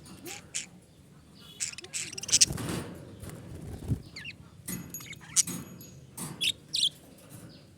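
Pet budgerigars chattering: a run of short, sharp chirps and clicks with a few quick rising chirps mixed in.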